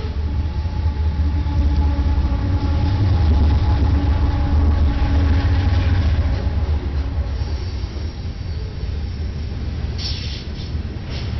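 Freight train with diesel locomotives passing, a deep rumble with steady engine tones that swells to its loudest a few seconds in and then eases. A brief sharp clatter comes near the end.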